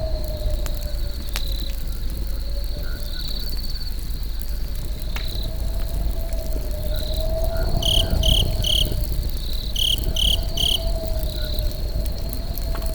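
Crickets chirping steadily, with two louder runs of three chirps about eight and ten seconds in, over a low rumble and a slowly wavering hum. A campfire crackles now and then.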